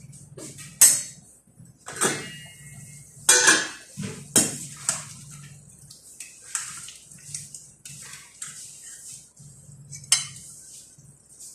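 Metal cutlery clinking and scraping against dishes in an irregular run of sharp clinks, the loudest about a second in, around three to four seconds, and near the end.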